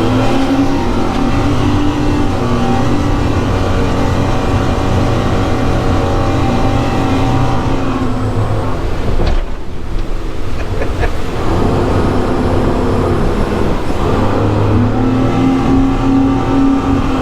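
Twin Suzuki outboard motors, 700 hp together, running hard under load. The engine note drops away briefly about nine seconds in, then comes back up and climbs again near the end.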